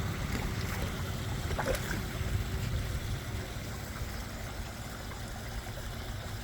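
Water trickling and running steadily in a garden pond, fed by a hose and the pump's circulation.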